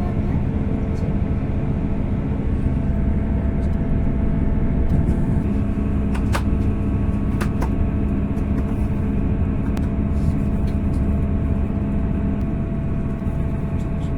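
Train running, heard from inside the passenger carriage: a steady rumble of wheels on rail with a steady hum from the drive, and a few sharp clicks around the middle.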